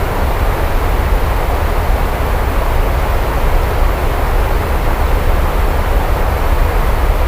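Steady heavy rain falling without a break, with a deep continuous rumble underneath.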